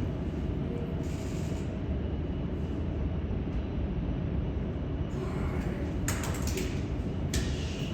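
Jet aircraft engines running, a steady rumble with a faint whine, swelling into a brief hiss a few times in the second half.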